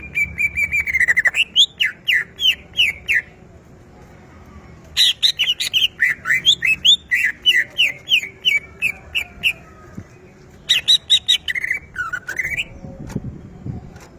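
Cucak ijo (green leafbird) singing in three bouts of quick, repeated slurred whistles, each bout a few seconds long with short pauses between. A few soft low thumps come near the end.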